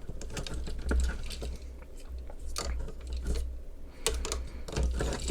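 Hard plastic parts of a toy robot being handled and snapped into place: scattered small clicks and light rattles.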